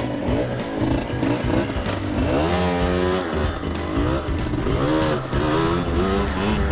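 Motorcycle engine running under way, its pitch rising and falling several times as the throttle is opened and closed, with music underneath.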